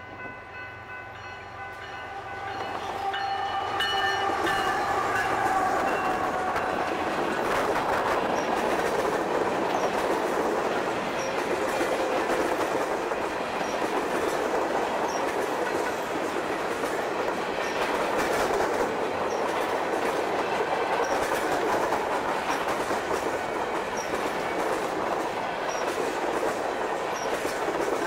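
A train's horn sounds as the train draws near, its pitch sagging slightly as it passes, and it dies away about seven seconds in. The passing train's steady wheel-on-rail noise builds over the first few seconds and carries on without a break.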